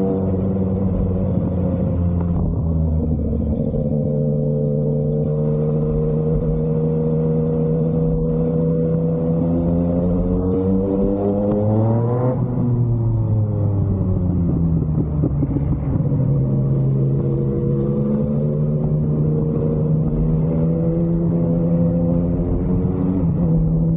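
Yamaha MT-09's inline-three engine through an SC Project aftermarket exhaust, riding under load. The pitch climbs steadily to about halfway, drops sharply, then settles lower and rises gently again.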